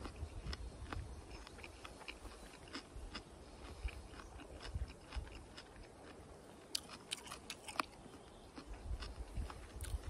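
A person chewing a crisp raw radish close to the microphone: irregular sharp crunches, thickest about seven to eight seconds in.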